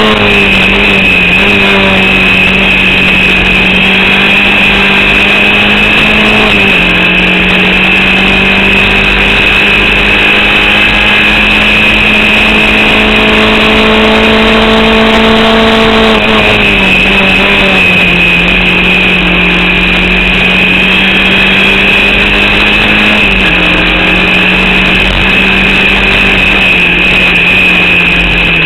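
Formula Vauxhall 8v racing engine heard onboard, running hard under load. Its note holds nearly steady, creeps up slowly and drops a step four times, and a steady high whine sits above it. The engine was misfiring through this race.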